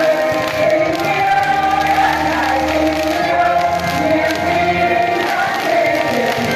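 A choir singing with musical accompaniment, in long held notes that slide from one pitch to the next.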